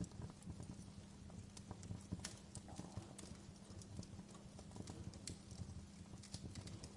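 Wood fire crackling: irregular sharp pops and snaps from burning logs over a low, steady rumble of flames.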